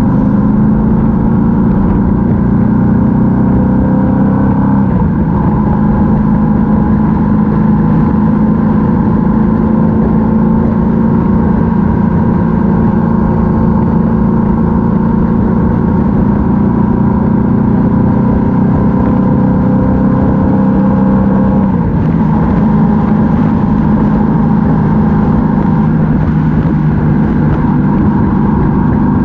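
Yamaha MT-07's 689 cc parallel-twin engine running under way. It rises in pitch for the first few seconds, then drops sharply about five seconds in as the rider shifts up. After that it holds a steady cruising note, with another drop in pitch a little past twenty seconds.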